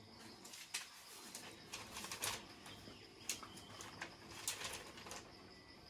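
Faint scattered clicks and knocks, about five of them a second or so apart, over a quiet background.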